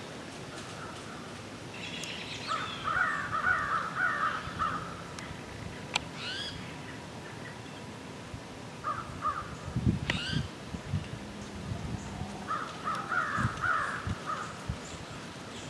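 Birds calling in the woods, in three bouts of rapid repeated notes with a couple of sharp rising chirps between them.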